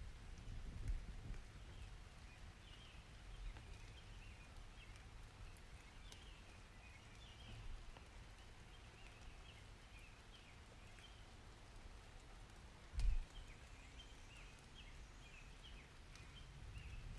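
Nature ambience of small birds chirping repeatedly over a low, uneven rumble, with one brief sharp thump about thirteen seconds in.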